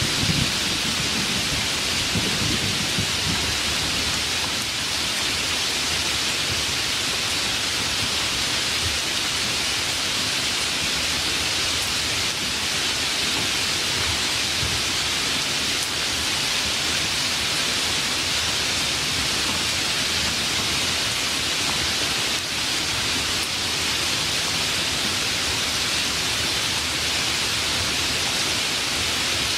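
Steady, heavy rain falling in a thunderstorm. The tail of a low thunder rumble dies away in the first seconds.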